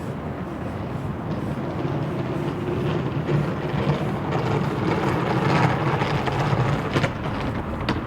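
A road vehicle passing close by on a city street at night, its noise building over several seconds and easing off, with a couple of sharp clicks near the end.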